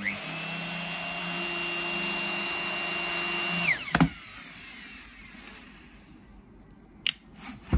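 Makita 3612C plunge router switched on and running at a steady high-pitched whine for about three and a half seconds, then switched off with a click and winding down. A couple of light handling clicks come near the end.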